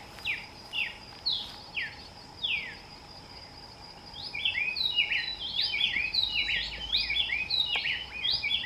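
A bird calling with clear falling notes, about two a second. From about four seconds in these break into a fast, jumbled run of overlapping notes.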